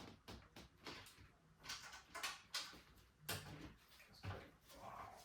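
Mountain bike being lifted down and set in place: a series of light knocks, clatters and rustles, the firmest about two seconds in and again near three and four seconds.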